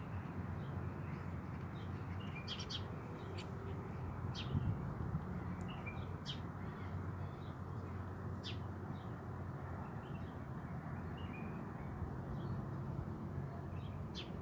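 Birds chirping now and then, short separate calls, over a steady low background rumble.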